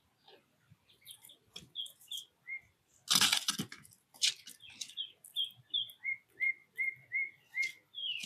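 Wild songbirds calling: scattered short chirps, a loud brief flurry of wing flaps about three seconds in, then a run of about five evenly spaced repeated whistled notes near the end.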